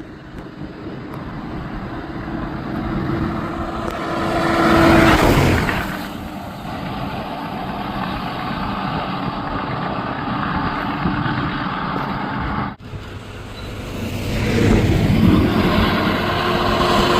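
Large coaches going by on a road, their engine and tyre noise swelling to a peak about five seconds in and again near the end.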